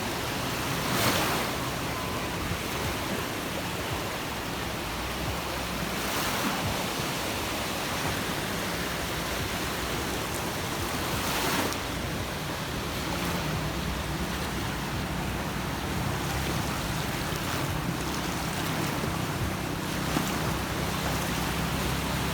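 Sea waves washing onto a beach, a steady rush that swells as waves break, roughly every five seconds.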